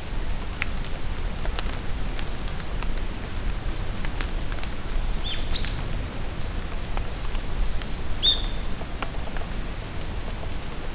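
Rain falling steadily in a forest, pattering with scattered drips ticking close by, while birds give a few short calls. These include a quick rising whistle about halfway through and a buzzy run of high notes shortly after.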